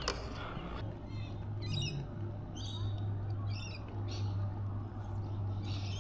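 A bird squawking in short bursts of quick high notes, about five times, over a steady low hum.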